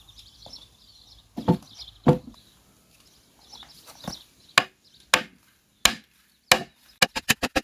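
Sharp, irregularly spaced knocks like blows on wood, with birds chirping faintly in the first half. Near the end a fast, even run of knocks begins, about seven a second.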